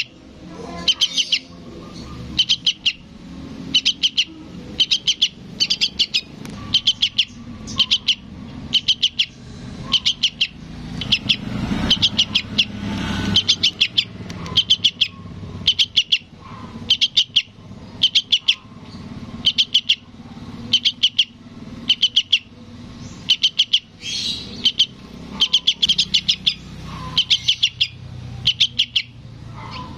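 Fledgling yellow-vented bulbul begging, calling for its parent: quick bursts of three to five high chirps, about once a second, over and over. A low rumble swells and fades in the middle.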